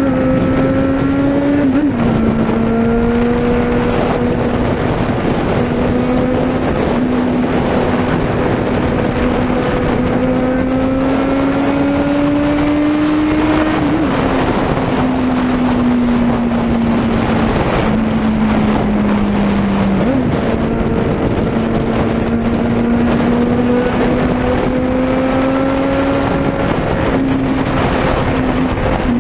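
Suzuki Bandit 650N's inline-four engine with a 4-into-1 exhaust, running loud while ridden. Its note climbs slowly and drops abruptly a few times through the stretch.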